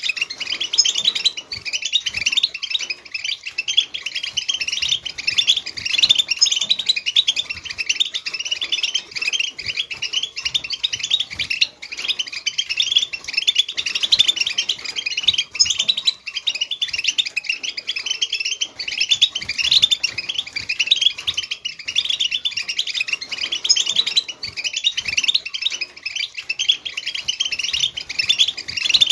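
European goldfinch twittering without pause: a rapid, unbroken chatter of fast chirps and trills, the 'batbata' chatter used to stir a silent caged goldfinch into song.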